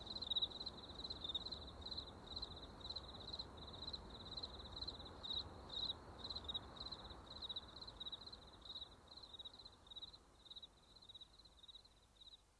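Crickets chirping: a steady run of short, high chirps that grows fainter, fading out near the end.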